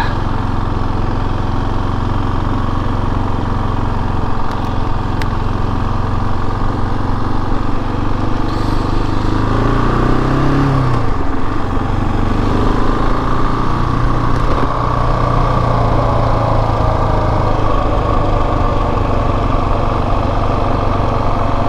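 KTM 690 Enduro R's single-cylinder engine running at low speed, with a brief rise and fall in engine pitch about ten seconds in.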